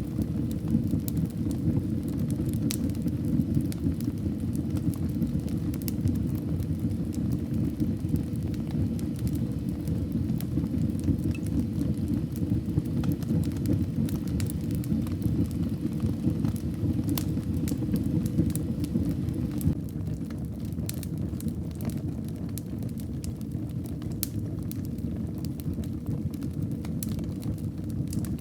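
Wood fire burning in a fireplace: a steady low rumble of flames with scattered sharp crackles and pops, turning a little quieter about two-thirds of the way through.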